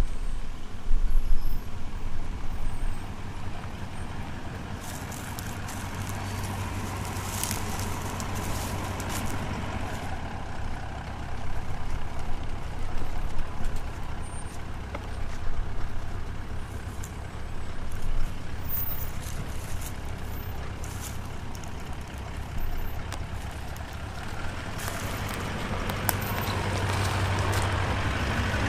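Toyota LandCruiser four-wheel drive with a V8 turbo-diesel engine, running steadily at low speed on a rough forest track. Scattered clicks and scrapes come in a few seconds in and again near the end.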